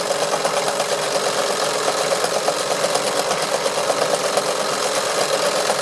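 Wilesco D141 toy steam engine running steadily and driving its small workshop drill, with a fast, even mechanical clatter.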